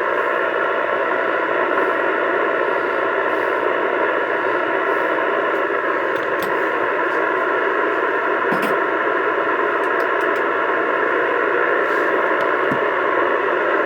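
Steady static hiss from a CB radio's speaker, even in level and without a voice in it.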